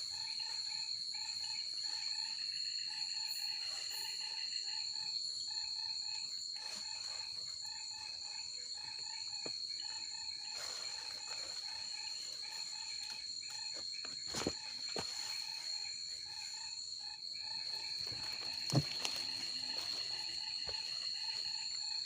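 Forest insects trilling steadily at a high pitch, with another repeated pulsing call, about two a second, beneath them. Two short knocks stand out, about halfway through and again near the end.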